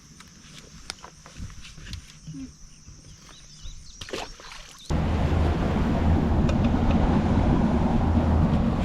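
Scattered light clicks over a steady high insect buzz, then an abrupt cut about five seconds in to a boat's outboard motor running at speed with loud wind and water rush.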